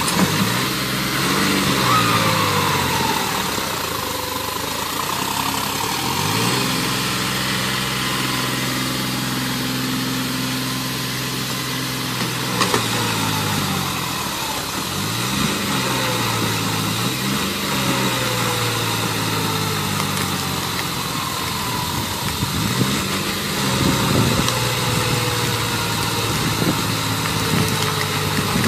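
Tractor engine running, its revs rising and falling several times with steadier stretches in between.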